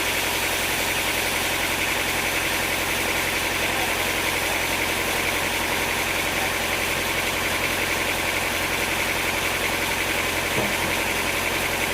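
Sawmill machinery running steadily at an even speed: an unchanging engine drone with a fast fine flutter and no cutting load.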